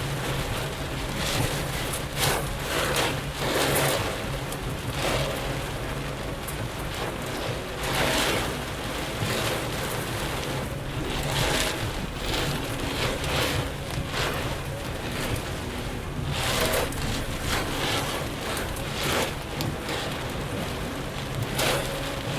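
Heavy rain and the steady road noise of a vehicle driving along a wet highway, with repeated surges of noise every one to two seconds.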